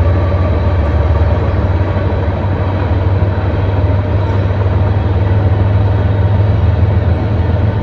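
Steady low rumble of a car driving: engine and road noise heard from inside the cabin, with no changes in pace.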